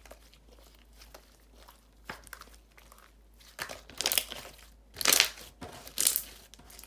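Soft jiggly slime being squished and pressed by hand, giving small crackling pops and clicks. Three louder squishes come in the second half.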